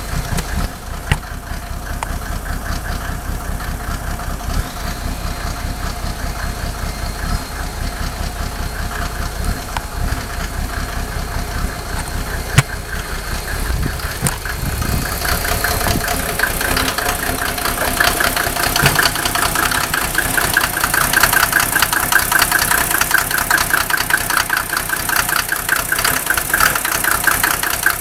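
Mercedes OM603 inline-six diesel idling rough after a cold start, with a fast, uneven knocking clatter, the rough cold idle and smoking that the owner traces to cylinders 2 and 6. The clatter grows louder about halfway through.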